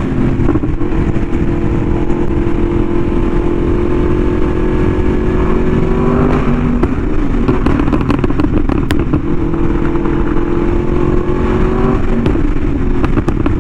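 Yamaha R1M's crossplane inline-four running through an SC Project exhaust at a steady cruise, heard from the rider's camera with heavy wind rush on the microphone. The engine note dips briefly about six seconds in and settles again.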